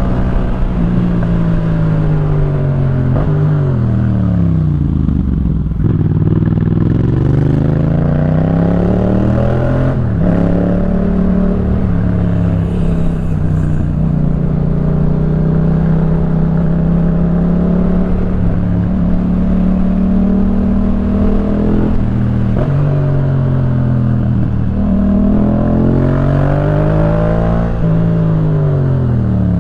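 Yamaha MT-07's parallel-twin engine breathing through a Jeskap K4 full aftermarket exhaust while riding. The engine winds down, pulls up again, holds a steady speed for about ten seconds, then drops off and picks up again near the end.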